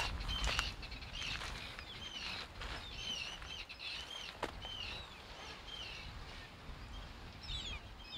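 A crowd of birds calling: many short, arching high calls overlapping and repeating throughout, over a low rumble.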